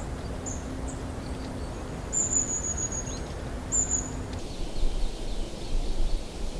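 Tropical forest ambience: a steady hiss with short, high, thin calls about four times in the first four seconds, the longest lasting about a second. About four and a half seconds in, the ambience switches to a different bed with a low rumble.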